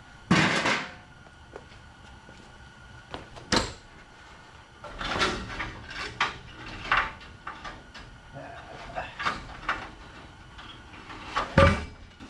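A string of knocks and clanks from parts and tools being handled in the workshop, with the loudest knock just after the start and another about a second before the end, and smaller clatters in between.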